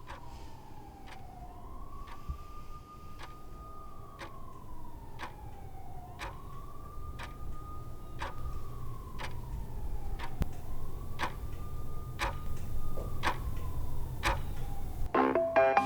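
A clock ticks steadily under a distant siren that wails slowly up and down, over a low rumble that grows louder. Music starts near the end.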